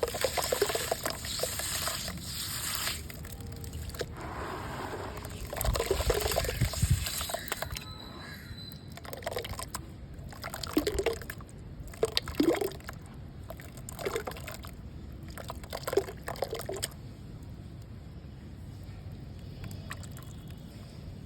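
Gritty red mud being crumbled into water: wet crunching and crumbling with trickling water, in two longer stretches, then five short separate crumbles about a second and a half apart, after which it stops.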